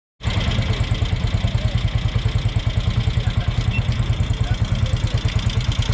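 Engine of a 1969 Montgomery Ward motorcycle, a rebadged Benelli, idling steadily with an even, rapid exhaust beat while it warms up.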